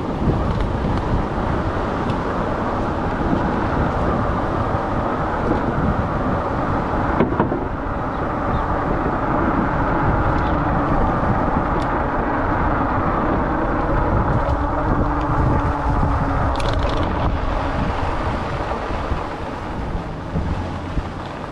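Steady rushing noise of riding an e-bike: wind over a chest-mounted GoPro's microphone and tyres rolling on the path, with a few faint clicks.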